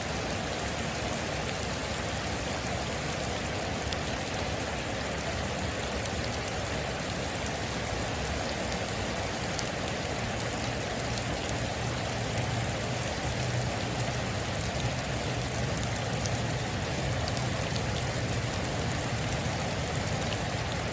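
Heavy rain falling steadily on a metal roof, an even wash with scattered sharp ticks of individual drops.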